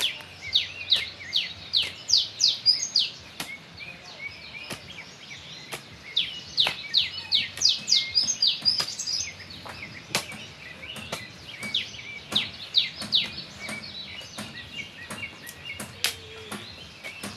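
A bird singing three runs of quick, high notes, each note falling in pitch, several notes a second. Scattered sharp clicks sound throughout.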